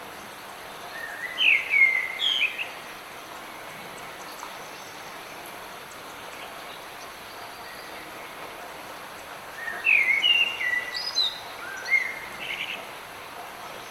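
Light rain making a steady hiss, with a songbird singing two short bursts of chirping phrases, one about a second in and another near the end.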